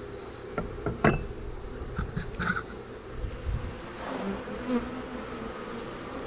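Honey bees buzzing around an open hive in a steady hum, with a few sharp knocks, the loudest about a second in.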